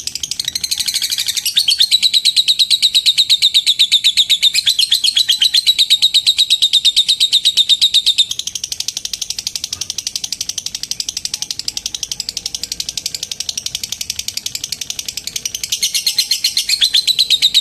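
Female lovebird giving a long unbroken ngekek: a fast, high-pitched chattering trill of very rapid repeated notes. It is loudest from about two seconds in to about eight seconds, softer for a while, and louder again near the end.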